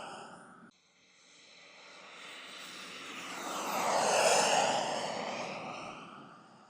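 Radio-controlled model aircraft flying past: its engine sound swells to a peak about four seconds in and then fades, the pitch dropping as it passes. Under a second in, the sound of an earlier pass cuts off abruptly.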